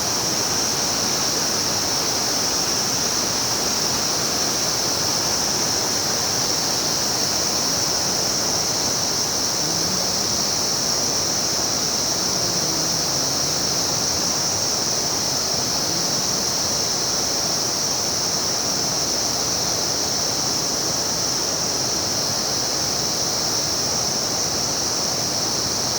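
River water rushing steadily over its bed, an even hiss with a strong high-pitched edge.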